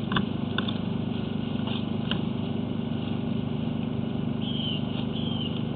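A steady motor hum, like an idling engine, with a few light clicks in the first two seconds and short high chirps near the end.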